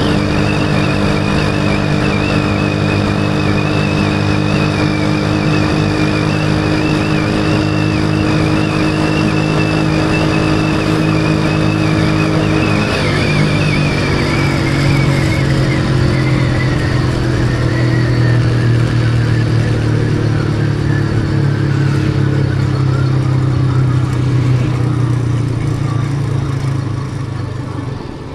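Motorcycle engine running steadily while riding, its note shifting about halfway through and easing off near the end.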